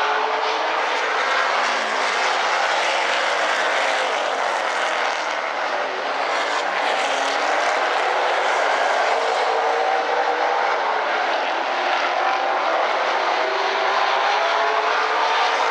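Field of super late model stock cars racing under green, their V8 engines running at full throttle in a steady, continuous drone, with the engine pitch shifting gently as the cars go round.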